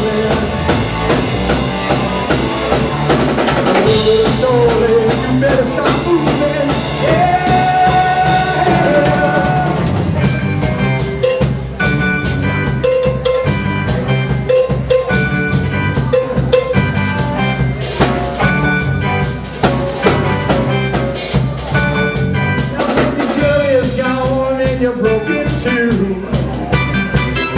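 Live rock band playing a 1960s garage-rock cover, with drum kit, bass and a lead singer. A sung passage gives way to an instrumental stretch with a repeated riff about ten seconds in, and the singing returns near the end.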